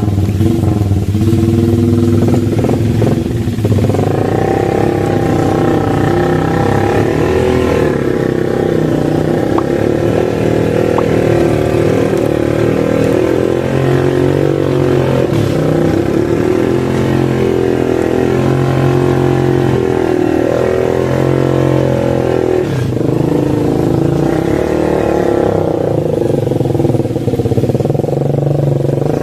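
Motorcycle engine running hard and revved up and down repeatedly, its pitch rising and falling over and over.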